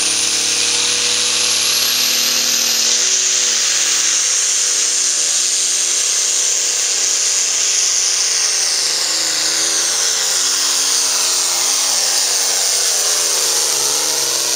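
Turbocharged diesel engine of a John Deere Pro Farm pulling tractor running at full throttle under the load of the sled. The engine pitch wavers up and down as it pulls, over a high turbo whine that climbs in pitch during the first few seconds.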